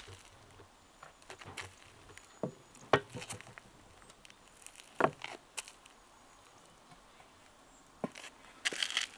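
A few scattered sharp knocks and taps, one to three seconds apart, over a faint steady background.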